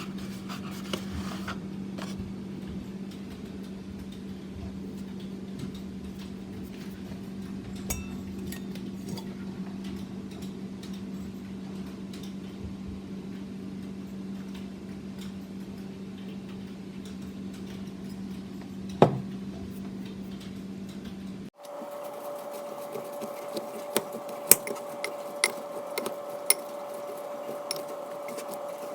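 A steady low hum with an occasional knock, including one louder knock. About three-quarters of the way through it switches abruptly to a higher steady hum, with a run of sharp clicks and knocks of kitchen utensils.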